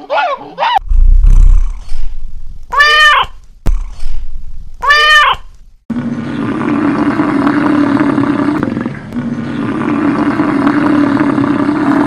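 A monkey gives short high calls, two of them rising and falling in pitch. Then an American bison bellows, a long low roar broken briefly in the middle.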